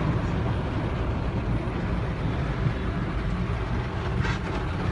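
Motor vehicle driving along a waterlogged road with a steady low rumble, and a brief hiss a little before the end.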